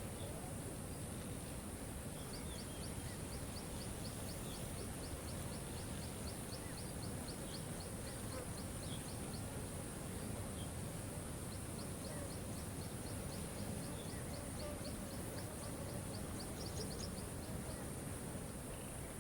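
Steady rush of a waterfall, with a high, rapid ticking call of about five notes a second that runs for several seconds twice, and a few short chirps between.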